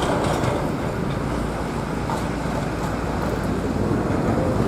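Steady low roar of jet airliner engines.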